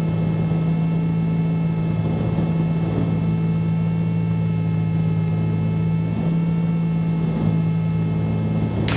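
The twin piston engines of a Cessna 310Q running as a steady drone, at approach power on final with the gear and flaps down.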